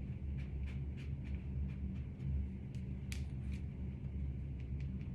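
Light, quick dabbing taps of foundation being patted onto a wig cap, two or three a second with one sharper tap about three seconds in, over a steady low hum.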